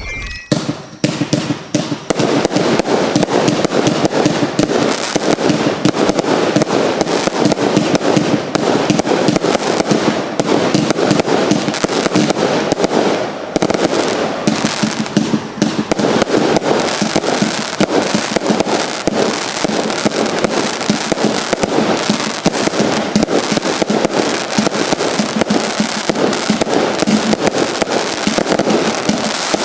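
Lesli 'Neon Outburst' compound firework cake firing: a dense, continuous string of rapid shots and bursts that builds up over the first two seconds and then keeps going with hardly a break.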